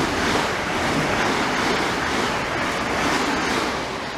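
Great Northern electric multiple-unit train running through the platform at speed, a steady rush of wheel and air noise that tails off near the end as the train clears.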